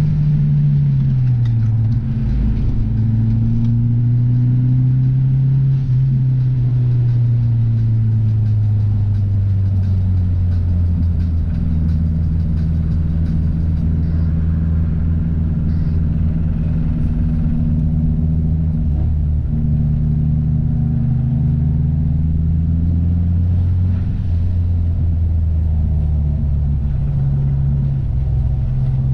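Car engine and exhaust running under way, the engine note dropping over the first couple of seconds, then holding low and drifting slowly with revs before rising again near the end.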